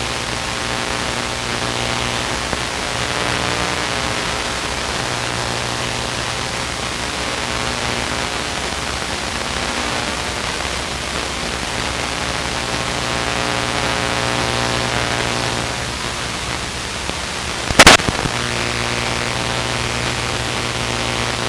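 Light aircraft engine and propeller drone steadily in cruise, heard in the cockpit through the headset intercom with a hiss over it. About three quarters of the way through there is one brief sharp click.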